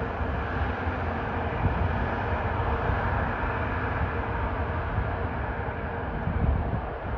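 NJ Transit commuter train running through the station: a steady rumble and rolling noise with a faint hum, swelling briefly near the end.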